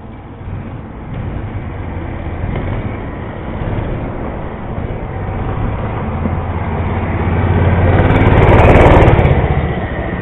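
Mini bike's small engine running as it rides past, growing louder to a peak about two seconds before the end, then fading as it moves away.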